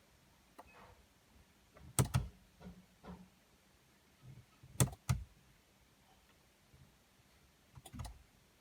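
Three pairs of sharp clicks about three seconds apart from a BMW E90's start/stop button being pressed and released. No starter cranking or engine sound follows, the sign of a no-start with no symptoms. Faint handling sounds come between the presses.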